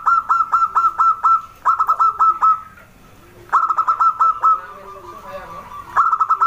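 Zebra dove (perkutut) calling: rapid runs of short, clipped ringing notes, about six a second, in three bursts broken by pauses, with a new run starting near the end. Softer, lower coos sound between the runs.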